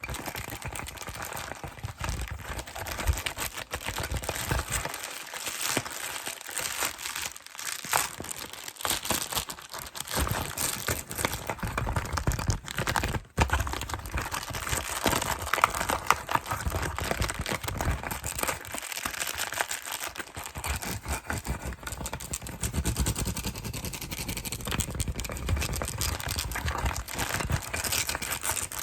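Plastic and cardboard packaging handled fast: dense crinkling, with taps and clicks.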